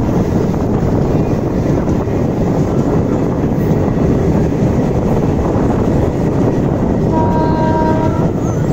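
Express passenger train running along the track at speed, heard from beside the coach: a steady loud rumble of wheels on rails. A train horn sounds once for about a second near the end.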